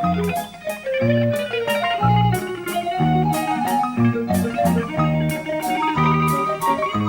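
Instrumental interlude of a slow Russian romance played by piano and a small band: a melody line over repeated bass notes, with light percussion ticking steadily about twice a second.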